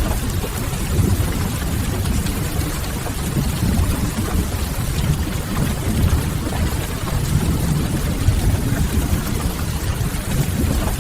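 Steady rain-and-fireplace ambience mix: an even low rumble under rain hissing on window glass, with faint crackling of burning firewood.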